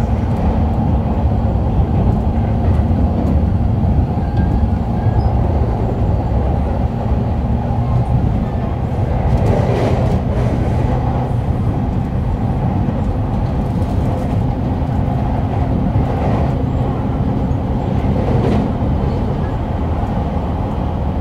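Shonan-Shinjuku Line electric commuter train running, heard from on board: a steady rumble of wheels on the rails with a low hum, and a few short bursts of hiss around the middle.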